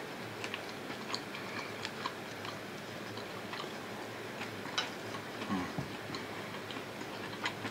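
A person chewing food quietly, with faint, irregular mouth clicks scattered through a low room background.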